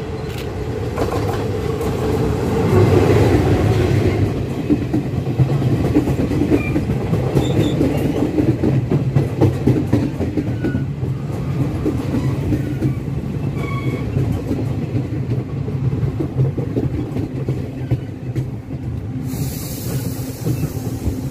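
Locomotive-hauled passenger train pulling into a station, with a steady rumble and wheels clattering over the rails. It is loudest about three seconds in, and a few short high squeaks come from the wheels.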